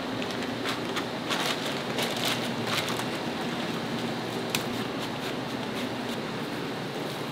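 Food sizzling in hot oil, a steady hiss with scattered sharp crackles and pops.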